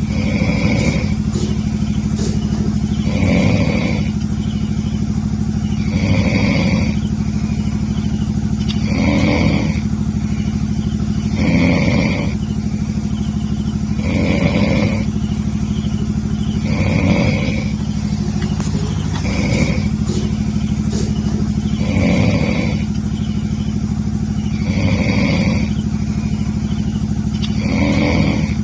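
An unidentified night animal calling over and over, one short call about every three seconds at a very regular pace, over a steady low hum.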